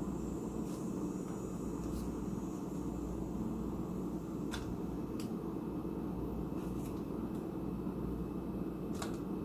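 A steady low background hum, with a few faint light clicks scattered through it.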